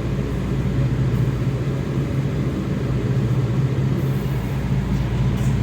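Kawasaki 7000-series Metrorail car under way, heard from inside the car: a steady low rumble and hum of the running train and its wheels on the rails.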